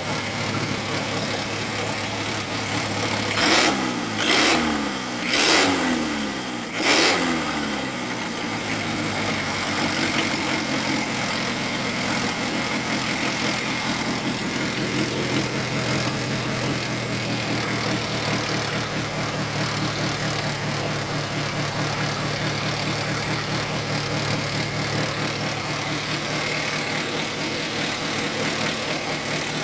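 Isuzu C221 four-cylinder diesel engine idling, then revved up and let fall back four times in quick succession a few seconds in, before settling back to a steady idle.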